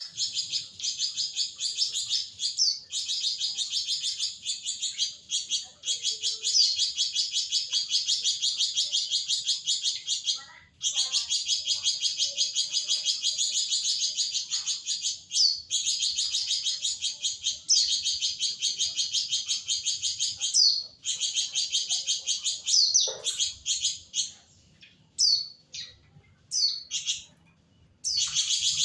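Flamboyan songbird giving its long, rapid chattering trill ('nyecret panjang'): fast, evenly repeated high notes in runs several seconds long, broken by short pauses. Near the end these give way to a few short, separate calls.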